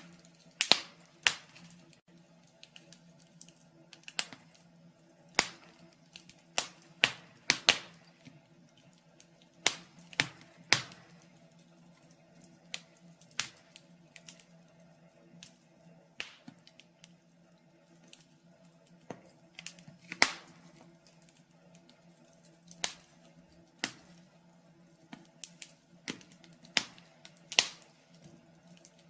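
Wood fire in a fireplace crackling: sharp pops and snaps at irregular intervals, about one a second, some louder than others, over a faint steady low hum.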